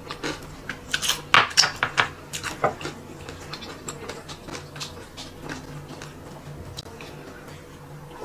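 Close-up chewing of a crispy fried chicken wing: a run of sharp crunchy crackles about one to three seconds in, then fainter scattered clicks.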